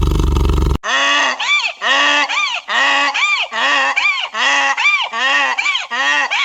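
A loud, low roar cut off abruptly under a second in, then a run of honking animal calls, about two a second, each rising and falling in pitch.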